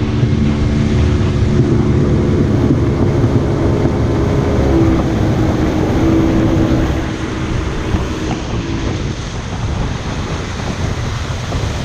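A boat's outboard motor runs steadily under way, with wind buffeting the microphone and water rushing past the hull. About seven seconds in, the motor's hum drops away and gets quieter, leaving mostly wind and water noise.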